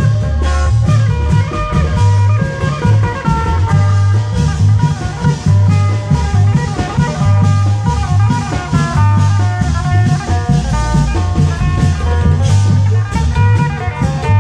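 Isan long-drum (klong yao) band playing: a dense, even beat of drums and cymbals under a bass line and a melody that keeps changing notes.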